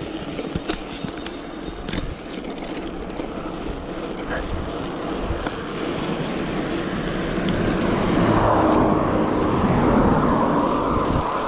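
Wind rushing over the microphone while a bike is ridden along, growing louder in the last few seconds.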